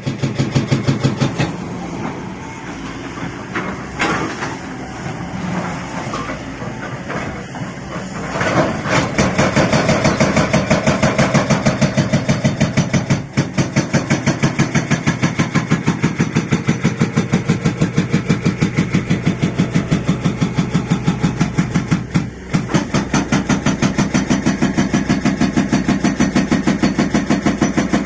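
Hydraulic rock breaker on a Liugong 921DI excavator hammering rock, over the excavator's diesel engine running. The rapid, steady rattle of blows sets in about a third of the way in and stops twice for a moment.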